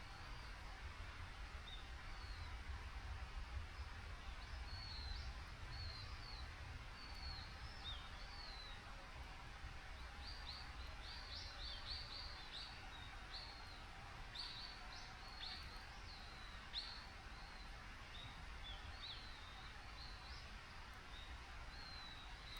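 Small birds calling in short, high chirps again and again, busiest about halfway through, over a faint steady outdoor background rush.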